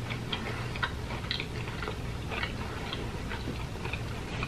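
A person chewing and crunching fried food: a scatter of small crunches and mouth clicks, over a low steady hum.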